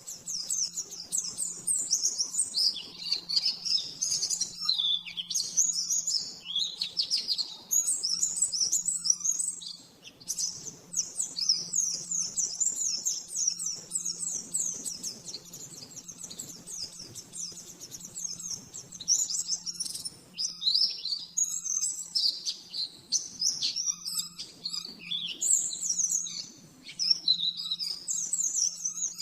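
A white-eye (pleci) singing almost without pause: a rapid, high twittering song in long, fast-running phrases with brief breaks. A faint steady low hum runs underneath.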